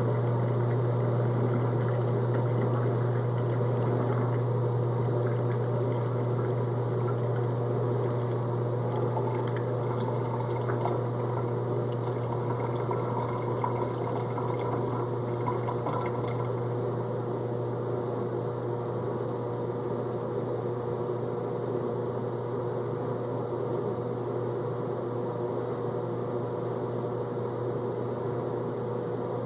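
Whirlpool dishwasher's drain pump running with a steady low hum, with gurgling water as it pumps the first-rinse water out of the tub.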